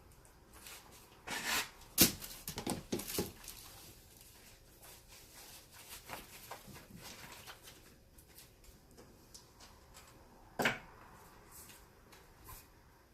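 Handling noises while a leather baseball glove is worked on: scattered rustles and short clicks, with a quick cluster of sharp knocks about two seconds in and one more near the end.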